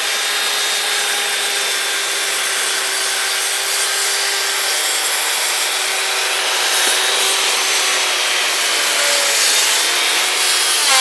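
Electric saw running steadily and cutting through wood.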